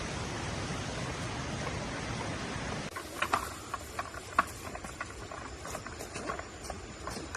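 A steady rushing hiss cuts off abruptly about three seconds in. A quieter background with scattered sharp clicks and snaps follows.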